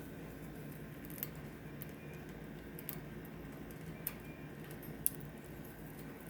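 A few faint, sharp clicks and taps over a steady low hum: budgerigar beaks pecking and nibbling, the sharpest click about five seconds in.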